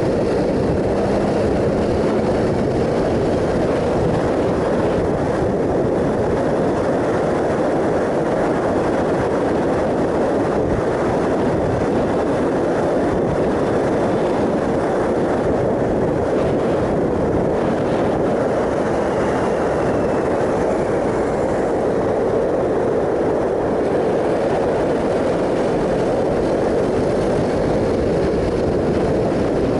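Triumph Sprint ST 1050 motorcycle riding at a steady speed: a constant rush of wind and road noise mixed with the three-cylinder engine's drone.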